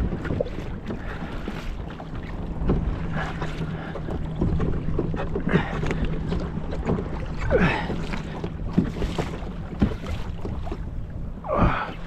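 Water sloshing and slapping against a kayak hull every few seconds, with wind buffeting the microphone and small knocks and ticks throughout.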